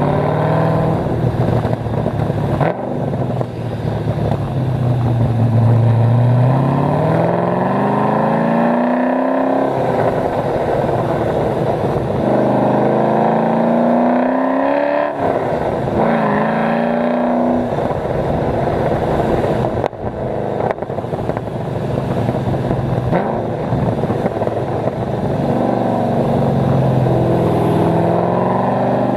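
Cammed LS1 V8 of an HSV VY Clubsport R8, with long-tube headers and an X-pipe exhaust, driven hard. The engine note climbs in several pulls, each broken off by a sudden drop in pitch at a gear change, then runs steadier towards the end.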